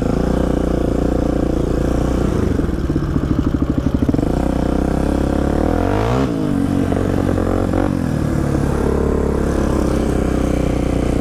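Polaris Predator quad's engine running as it is ridden along a trail, the revs changing with the throttle, with a quick rise in pitch about six seconds in. Heard close up through a helmet-mounted mic.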